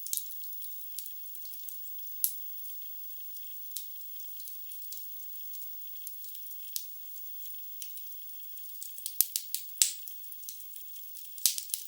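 Wood fire burning in a fireplace: a steady soft hiss with irregular crackles and sharp pops from the logs, a quick run of louder pops a little after nine seconds and another loud pop near the end.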